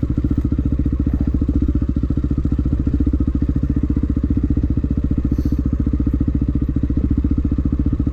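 Dirt bike engine running steadily at low revs with a quick, even throb, neither revving up nor dying away.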